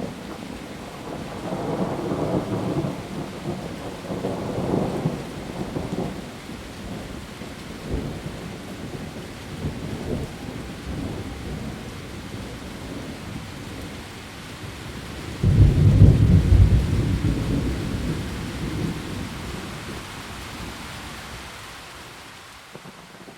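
Heavy rain falling steadily on leaves, with rolling thunder in the first few seconds and a sudden loud thunderclap about two-thirds of the way through that rumbles away over several seconds.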